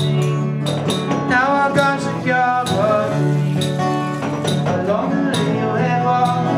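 Acoustic guitar strummed with a voice singing, a live unplugged band performance played in a bathroom.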